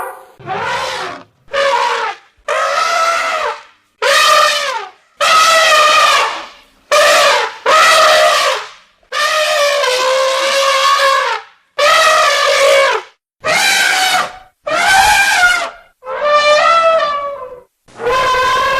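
Elephant trumpeting: about a dozen loud, brassy calls in a row, each a second or so long and separated by brief silences, several bending in pitch.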